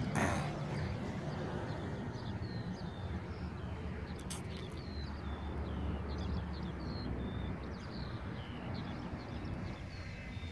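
Birds chirping in short, repeated notes over a low wind rumble on the microphone, with a sharp knock right at the start.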